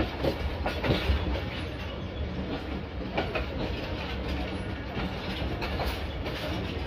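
Passenger train running at speed: a steady low rumble of the carriage, with a few sharp clacks of the wheels over the rails, about a second in and again near the middle and the end.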